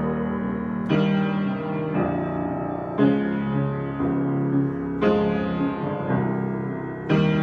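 Solo piano improvisation: full chords struck about once a second and left to ring into one another.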